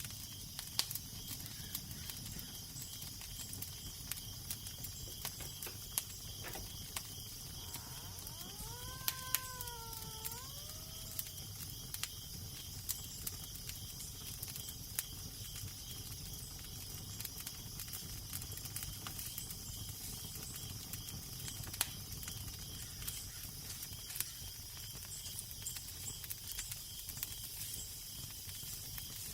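Fireplace fire crackling, with scattered sharp pops over a steady hiss. About nine seconds in there is one short wavering tone that rises and then falls.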